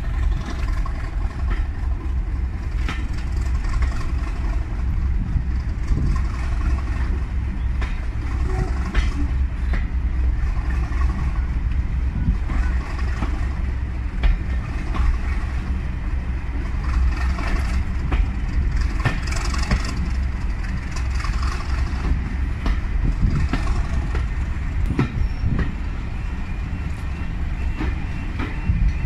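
Railway carriage running along the line, heard from an open window: a steady low rumble with many irregular clicks of the wheels on the rails.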